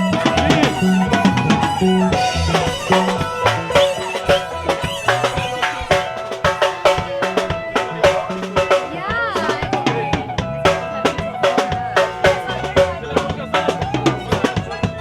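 Live band music with a drum kit playing a steady beat of snare and rim hits under sustained pitched instruments.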